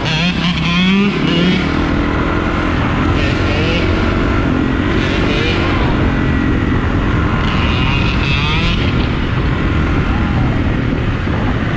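Motorcycle engines running and revving, their pitch rising and falling over a steady low rumble.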